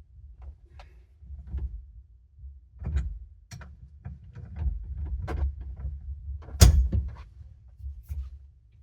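Irregular knocks, clicks and clunks of hands and tools working on a stuck S2000 steering wheel to pull it off its hub, with one loud knock about two-thirds of the way through.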